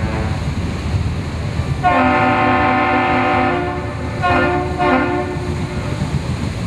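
A multi-tone air horn at the harbour sounds one long blast, then two short ones, over a steady low rumble. The long-short-short pattern is the Great Lakes salute signal traded between a passing ship and the Duluth lift bridge.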